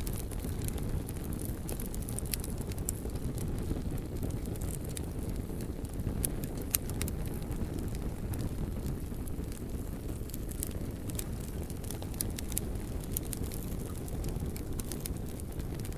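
Wood fire burning, with a steady low rumble and many small crackles and pops, one sharper pop about seven seconds in.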